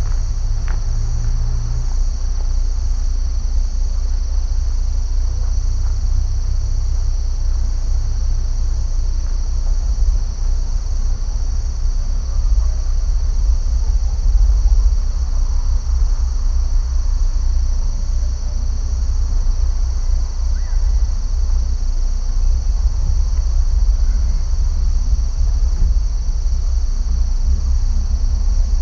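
Steady, unbroken high-pitched insect chorus, over a constant low rumble.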